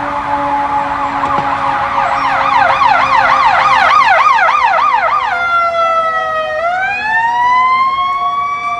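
Fire apparatus sirens on an emergency response. An electronic siren runs a fast yelp at about three cycles a second, then about five seconds in switches to a wail that dips and rises again toward the end. A steadier, lower siren tone underneath slowly falls in pitch.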